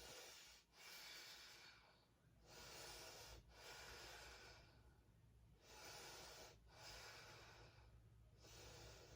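Faint, slow breathing of a woman holding a bound side angle yoga pose: about six long, even breaths in and out.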